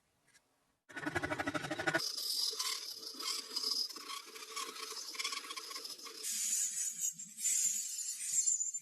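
Rough scraping and rubbing from hand work on the blade or cane, starting about a second in as a fast rattling scrape and changing abruptly in character twice.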